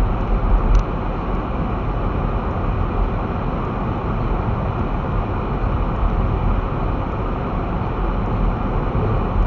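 Steady engine and road rumble heard inside a car's cabin while driving, deepest at the bottom, with a small click just under a second in.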